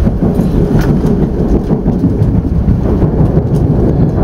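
Steady low rumble of a Kintetsu Vista Car limited express running along the line, as heard inside the upper-deck cabin.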